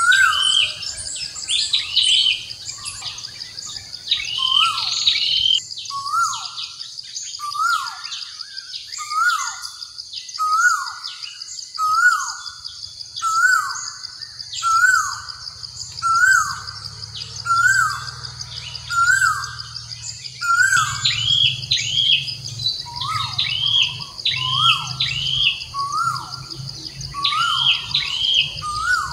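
Birds calling repeatedly: a short call that rises then drops, once every second or so, with runs of quicker, higher chirps at the start and again near the end, over a steady high-pitched insect drone.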